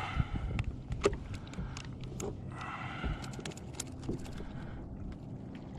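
Scattered light knocks and clicks aboard a fishing kayak over a steady low background rumble, with a faint muffled voice about three seconds in.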